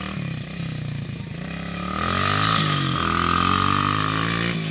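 Pit bike engine revving up. Its pitch climbs about a second and a half in, then it runs steadily at higher revs and is loudest in the second half.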